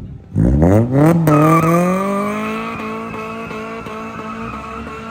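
A car's engine revs up sharply about half a second in, then holds high, slowly climbing revs as the car launches and pulls away, growing gradually quieter.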